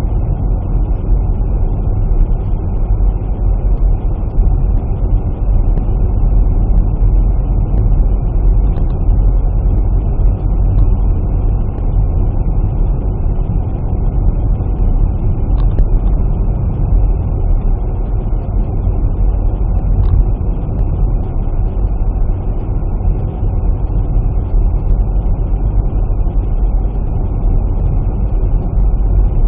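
Steady vehicle running noise, engine and road, heavy in the bass and unbroken throughout.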